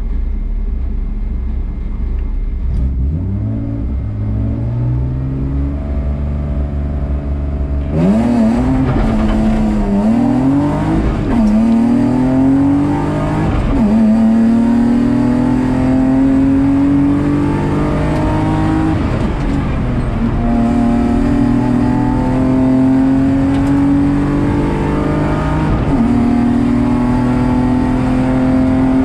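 BMW E36 328's naturally aspirated M52B28 2.8-litre straight-six, heard from inside the cabin, running and revving at low load at first. About eight seconds in it goes to full throttle; the engine pitch climbs and falls back at each gear change as the car accelerates hard uphill.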